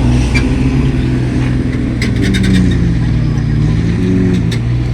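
Heavy coal truck's engine running at low revs as it crawls through a deep pothole, its pitch rising and falling slightly. A quick run of sharp clicks comes about two seconds in.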